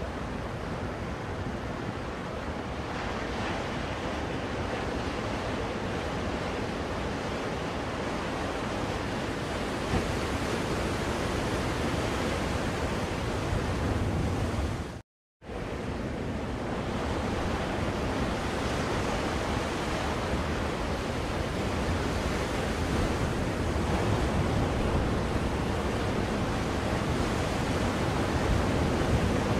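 Recorded ocean waves washing on a shore, played as a steady white-noise track. The sound cuts out for a split second about halfway through and then resumes.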